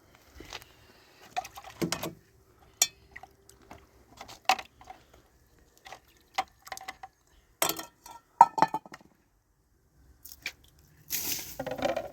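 Irregular clinks and knocks of objects being handled, with a short rustling scrape near the end.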